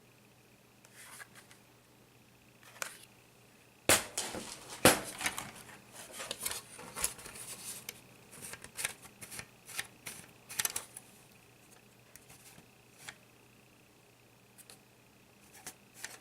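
Sharp clicks and snaps of a laptop's plastic case and parts being handled during disassembly. They begin suddenly about four seconds in, come thick and irregular for several seconds, then thin out to a few scattered clicks after about eleven seconds.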